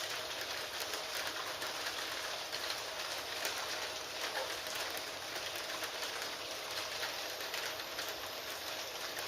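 Steady rain noise with faint scattered ticks running through it, and a faint steady tone held underneath.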